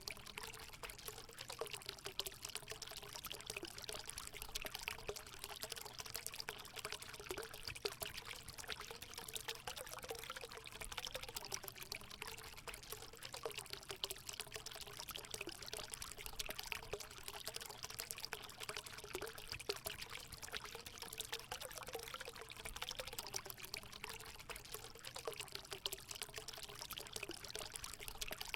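Water running and splashing steadily into a hot spring pool, a continuous pouring trickle with many small splashes and a faint gurgle.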